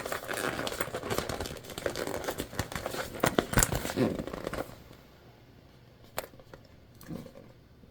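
Crinkling and rustling of the vinyl bag and sewing materials being handled. It is dense with small clicks for about the first four and a half seconds, then quieter with a few single clicks.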